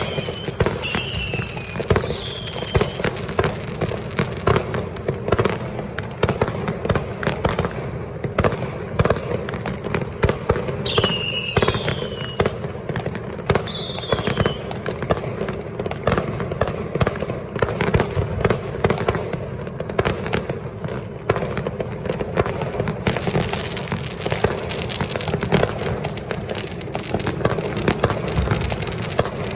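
Many firecrackers and fireworks going off together in a dense, continuous crackle of bangs, with a few short falling whistles near the start and about halfway through.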